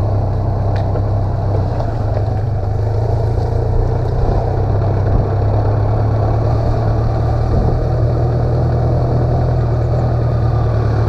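BMW K1200LT touring motorcycle's 1171 cc inline-four engine running steadily under way at low speed, pulling up a gentle hill.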